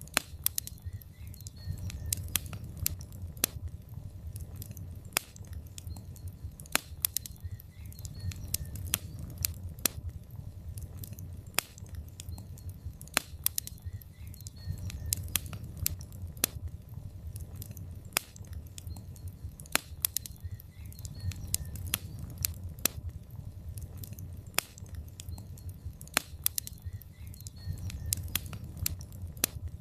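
Logs burning in a fireplace: irregular sharp crackles and snaps, one to a few a second, over a steady low rumble of the fire.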